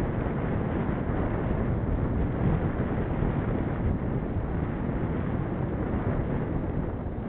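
Steady wind buffeting the microphone of a camera carried on a moving bicycle, a dense low rushing with no breaks.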